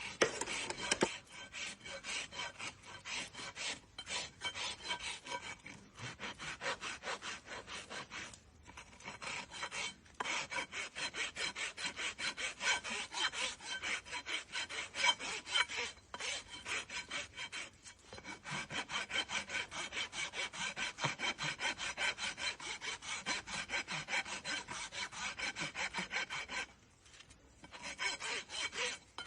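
A farrier's rasp filing a hoof in fast rhythmic back-and-forth strokes, with brief pauses every few seconds.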